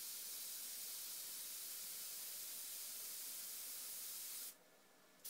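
Airbrush spraying paint: a steady high hiss of air that cuts off about four and a half seconds in, then starts again right at the end.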